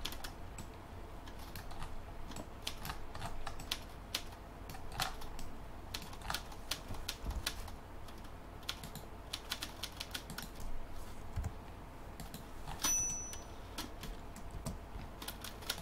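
Irregular clicking and tapping of a computer keyboard and mouse, several clicks a second at times, with short pauses between.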